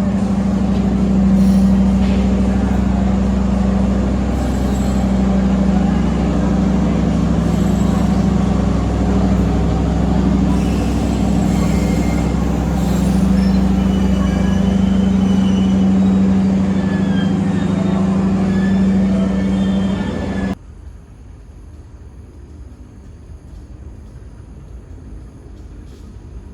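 CC 202 diesel-electric locomotive engine running loud and steady, a heavy drone with a strong low hum. It cuts off abruptly about twenty seconds in, leaving a much fainter background.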